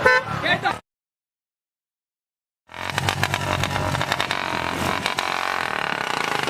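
A short pitched sound cuts off under a second in, followed by about two seconds of dead silence; then motorcycle engines start up running steadily with a rapid, even pulse.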